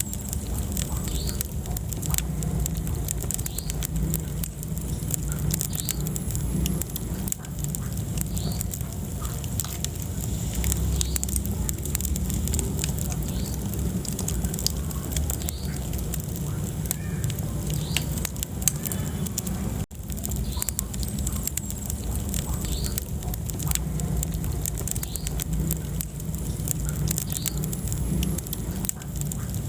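Wood fire burning in a fireplace: frequent sharp crackles and pops over a steady low rumble of flames, with occasional short high squeaks. The sound drops out for a moment about two-thirds of the way through.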